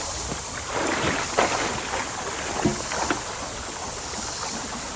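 Running water from the creek, with a few scrapes and knocks as a heavy piece of debris is pushed and dragged over the ground, clustered in the first three seconds.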